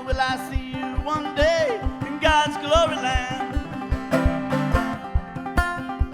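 Live bluegrass-style band music in an instrumental break: banjo picking over a steady low beat of about three pulses a second, with a wavering, bending lead melody line above it.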